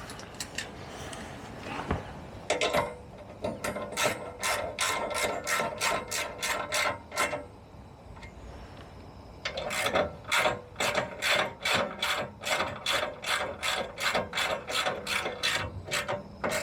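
Ratchet wrench tightening a bolt: two runs of even ratchet clicks, about three a second, with a short pause between them.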